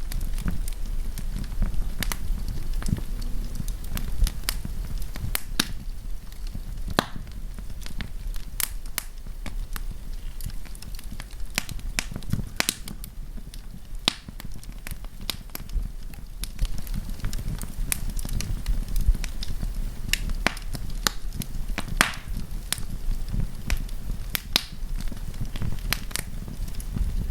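Wood fire crackling and popping, with irregular sharp snaps of burning wood over a steady low rumble of the flames.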